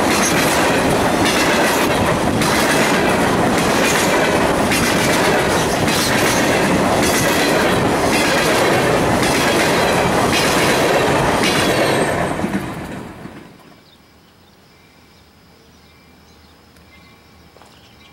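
Empty covered hopper cars of a freight train rolling past close by, their wheels clicking in a steady rhythm over the rail joints. About 13 seconds in the sound drops away to a faint background.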